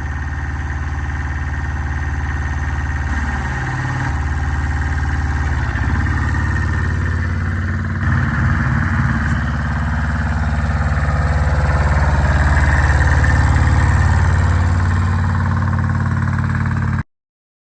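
A 1979 Kubota L185 compact tractor's two-cylinder diesel engine running steadily, its speed wavering briefly a couple of times. The sound cuts off suddenly just before the end.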